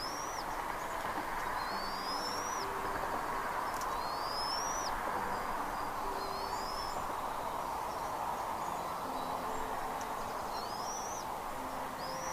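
A bird repeating a short rising whistled call about every one to two seconds, over a steady rushing hiss, with low drawn-out hoot-like tones underneath.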